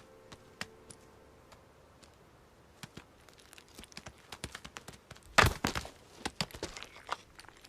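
Markhor hooves knocking on rock: a few isolated clicks, building from about three seconds in into a quick, irregular clatter of knocks and cracks that is loudest about five and a half seconds in.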